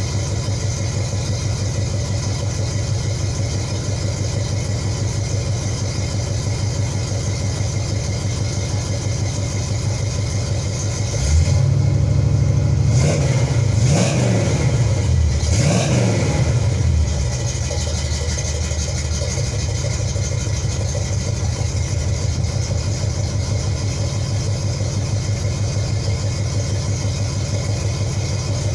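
A 1972 Buick's warm 350 V8, breathing through new headers and exhaust, idling steadily. About halfway through it is revved up twice, the pitch rising and falling each time, then it settles back to idle.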